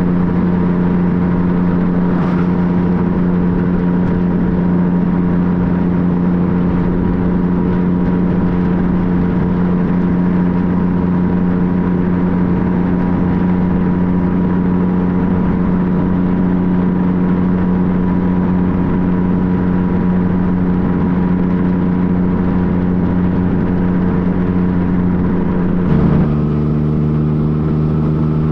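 2015 Yamaha FJ-09's three-cylinder engine running at a steady pitch while riding. Near the end the engine note drops suddenly to a lower steady pitch, as with a gear change.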